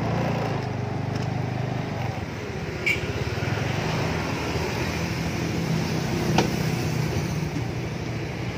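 Motor scooter engine idling steadily, with street traffic around it. Two short sharp clicks, one about three seconds in and one a little past six seconds.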